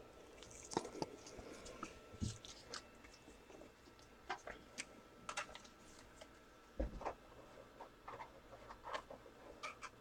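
Faint, scattered clicks and soft rustles of handling at a desk, irregularly spaced with a few slightly louder knocks.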